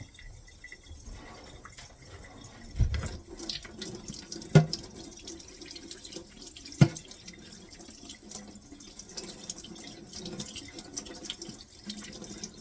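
Kitchen tap running water over dirty dishwasher filter parts as they are rinsed of food chunks and mold, with a few sharp knocks, the two loudest about four and a half and seven seconds in.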